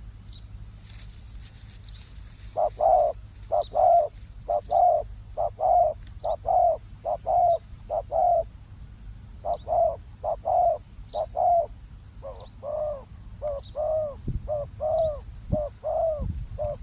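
Spotted doves cooing: runs of short, husky coo notes repeated over and over, with a brief pause partway through.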